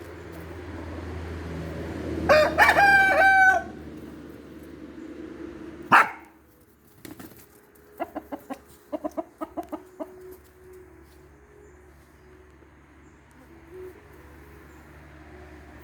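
A rooster crows once, about two seconds in. A short sharp noise follows about six seconds in, then a quick run of clucks.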